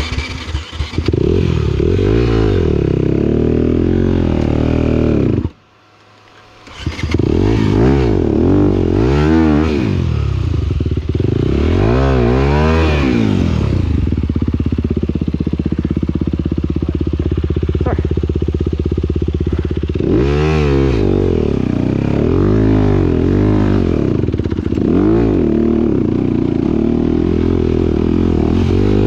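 Motocross bike engine, its revs rising and falling over and over, with a short break in the sound about five and a half seconds in.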